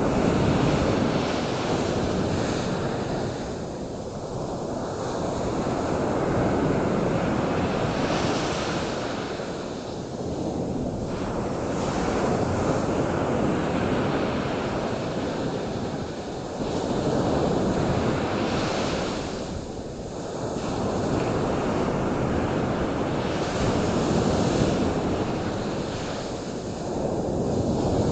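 Rushing surf: waves breaking and washing in, swelling and fading every few seconds.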